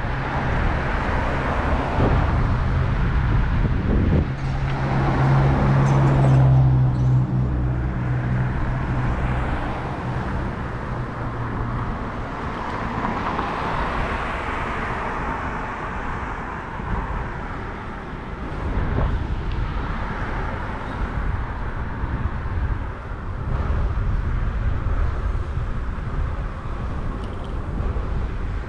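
City street traffic heard from a moving bicycle, with wind buffeting the microphone. A vehicle's engine hum comes up close about four seconds in and fades out over the next several seconds.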